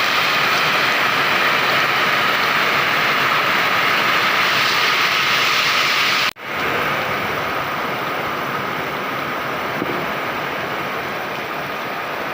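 Heavy rain pouring down in strong wind, a loud, steady noise. About six seconds in, the sound cuts out for a moment and then returns a little quieter.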